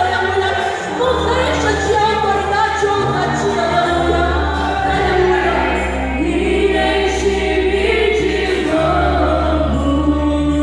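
Church worship band and choir singing gospel music, with several voices over long held bass notes that change chord every few seconds.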